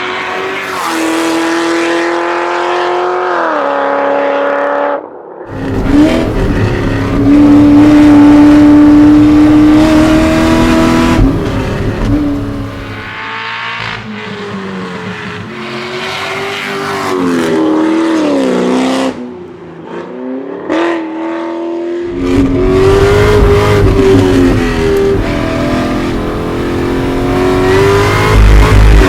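A 2013 Cadillac CTS-V's supercharged 6.2-litre LSA V8 being driven hard on a winding road. The engine note climbs under acceleration and falls away when backing off, over and over, with a sudden cut about five seconds in and a quieter lull about two-thirds of the way through.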